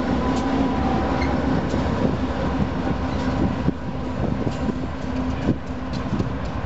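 Union Pacific diesel freight locomotives at the rear of a long train running past and pulling away, a steady engine hum fading slightly. Wheels click over the rails, more distinctly from about halfway through.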